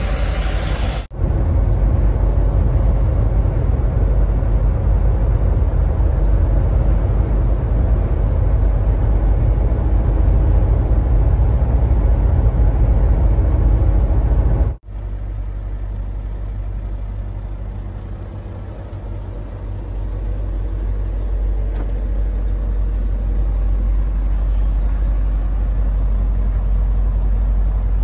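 Steady low rumble of a motor vehicle on the road, engine and road noise. It breaks off sharply about a second in and again about halfway through, and after the second break it runs somewhat quieter before building back up.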